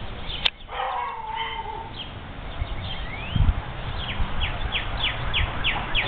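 Songbirds singing: scattered high chirps, then from about four seconds in a run of quick down-slurred notes repeated about three times a second. A sharp click comes about half a second in, followed by a lower call, over a low rumble.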